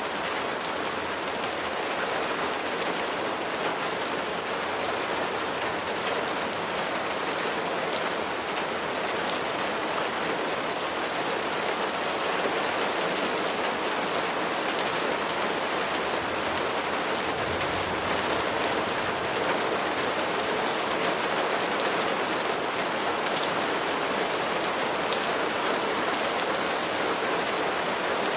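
Steady rain falling, an even hiss dotted with the ticks of individual raindrops striking a surface.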